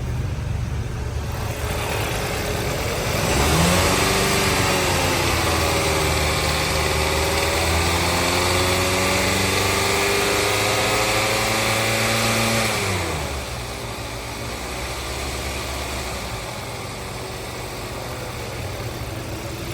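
2013 Kia Optima's 2.4-litre direct-injection four-cylinder engine idling, then revved up a few seconds in and held at raised speed for about nine seconds before dropping back to a steady idle.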